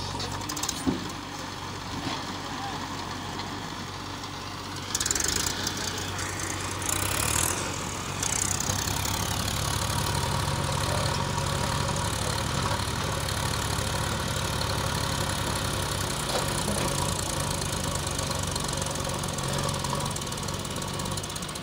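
Heavy diesel engine running steadily, getting louder about five seconds in and staying at the higher level.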